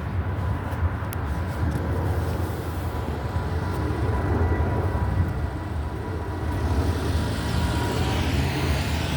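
Road traffic with a steady low rumble; from about seven seconds in, a car passes close on the wet road, its tyre hiss rising and sweeping by.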